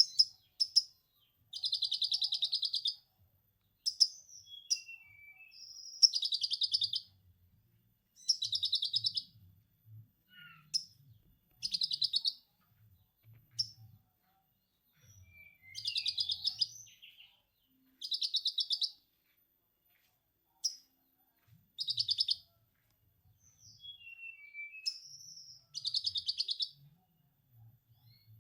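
Konin songbird singing lovebird-style 'ngekek': repeated bursts of rapid, high chattering about a second long, every two to three seconds, with short whistled and sliding notes between them.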